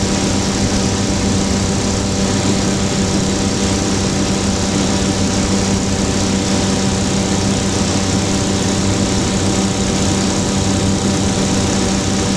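Flightstar II light sport aircraft's engine and propeller running steadily, a constant-pitch drone with a strong low hum that does not change.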